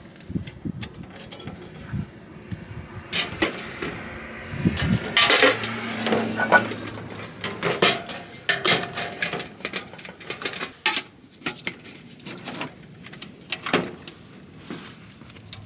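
Irregular small knocks, clicks and clatter of objects being handled, louder around five to seven seconds in.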